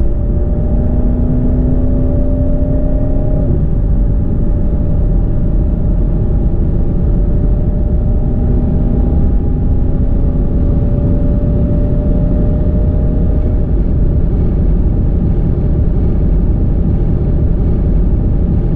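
Remapped Alfa Romeo Giulia Veloce's 2.2 four-cylinder turbodiesel pulling at full throttle, heard from inside the cabin as the car accelerates from about 120 to 200 km/h. A loud, steady rumble with road and wind noise, and a faint whine rising slowly in pitch as the revs climb.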